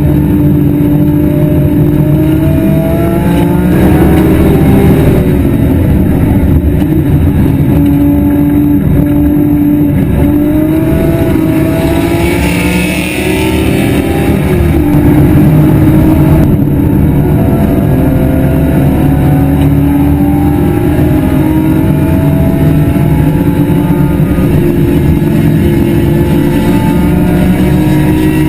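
BMW E46 M3 race car's straight-six engine at high revs, heard from inside the car. Its pitch climbs through each gear and drops back at the shifts, with a brief lift off the throttle about halfway through.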